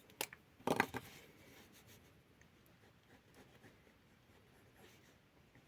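Pencil strokes on paper, mostly faint, with a short louder scratch about a second in.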